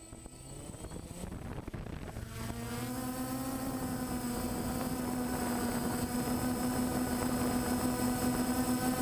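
An engine winding up, its pitch rising over the first two or three seconds, then running at a steady, even pitch and slowly growing louder.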